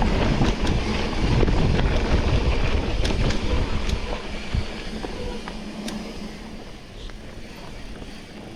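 Bicycle being ridden on a trail: a rough, rumbling noise, loudest for the first few seconds and then easing off, with scattered sharp clicks and rattles.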